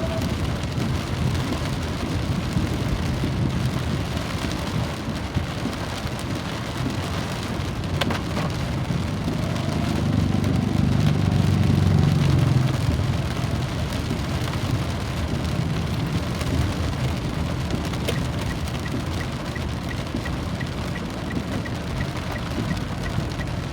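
Steady rain falling, with a low rumble that swells for a few seconds around the middle before fading back.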